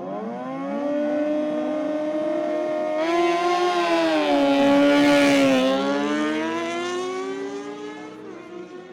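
Superbike engine at high revs, rising in pitch as it accelerates, getting louder as it approaches, then dropping in pitch as it passes about halfway through and fading as it pulls away.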